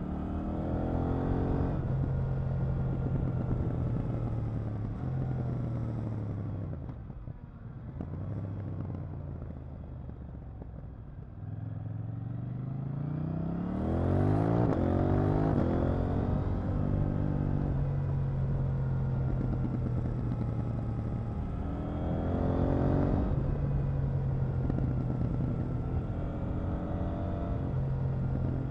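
KTM 890 Duke R's parallel-twin engine heard from on board while riding: it climbs in revs at the start, rolls off to a quieter coast for a few seconds, then pulls hard with rising revs, holds a steady cruise and accelerates again near the end.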